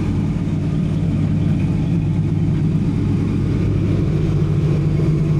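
1983 Oldsmobile Cutlass Hurst/Olds V8 idling steadily, with no revving.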